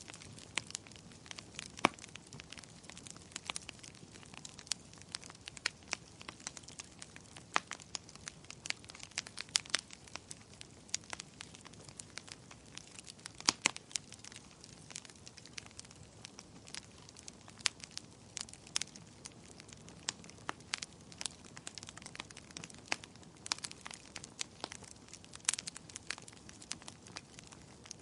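Fire burning in a fireplace, crackling steadily with irregular small pops several times a second and a few louder snaps, over a soft steady hiss.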